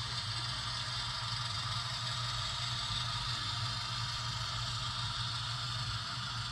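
HO-scale model locomotive running slowly with a cut of cars: a steady mechanical whir of motor and gears with a low hum.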